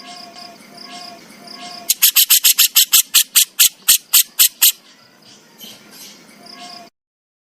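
Burung jenggot (crescent-chested babbler) giving its harsh rattling 'besetan' call: a fast run of about sixteen sharp, high, clicking notes lasting under three seconds, with soft short notes repeating before and after. The sound cuts off abruptly near the end.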